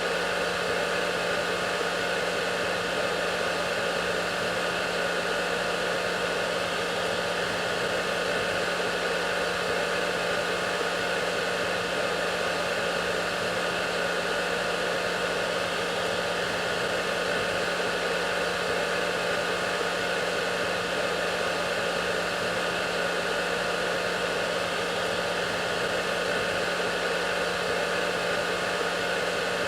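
Hair dryer running steadily: a constant airy rush over a low motor hum and a few faint steady whining tones, with no change in level.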